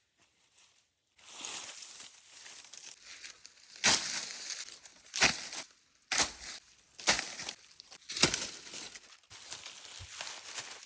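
Crunching and crackling handling noise with five sharp, loud cracks about a second apart.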